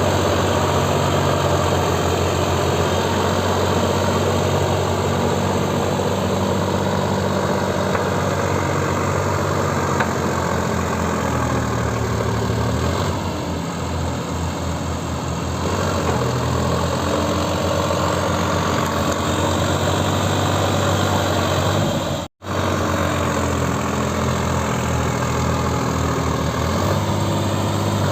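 Tractor's diesel engine running steadily, its revs dipping and shifting in pitch about halfway through and again near the end. The sound cuts out for an instant a little after 22 seconds.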